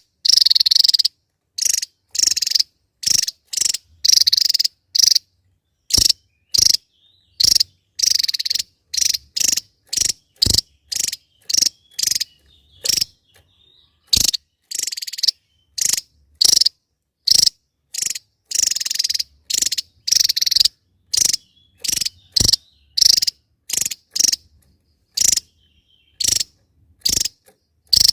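Javan tesia calling in a rapid, unbroken run of short, harsh, rasping notes, about two a second with some drawn out longer, high-pitched and dry.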